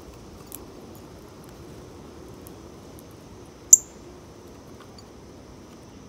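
A single short, sharp, high chip from a small bird about two-thirds of the way through, over a steady thin high insect drone and a few faint ticks.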